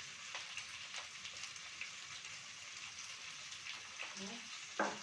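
Onion and chicken frying in oil in a pan: a steady sizzling hiss with small crackles, just after salt has gone in. A sharp knock comes a little before the end.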